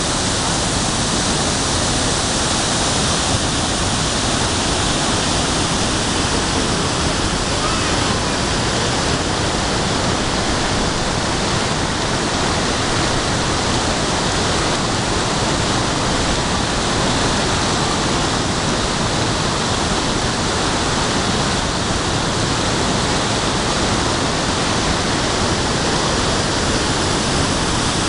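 Large waterfall, a steady loud roar of falling water.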